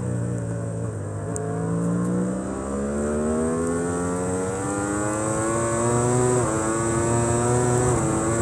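Superbike racing engine heard from an onboard camera, revs climbing steadily under hard acceleration, then dropping sharply at an upshift about six seconds in and again near the end.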